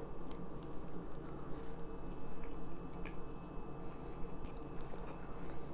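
A person chewing a bite of washed Gouda cheese, with quiet, wet mouth clicks close to the microphone over a steady low hum.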